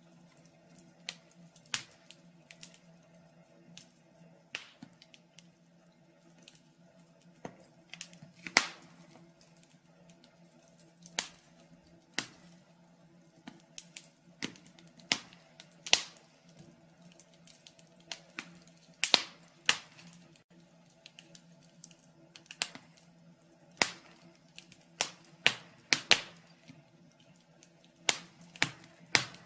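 Wood fire in a fireplace crackling: irregular sharp pops and snaps, roughly one or two a second, a few of them noticeably louder.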